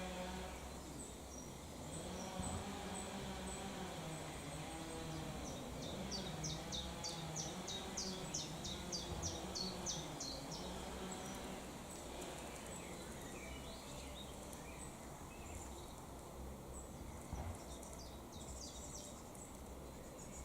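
Small birds chirping, with a quick run of repeated high chirps from about five to ten seconds in, over low background noise.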